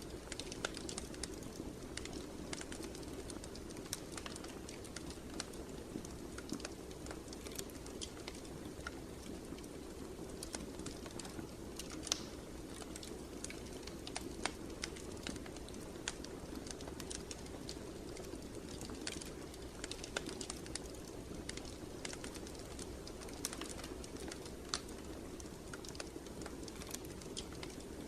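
Wood fire crackling in a fireplace: irregular sharp pops and snaps over a steady low rush of burning.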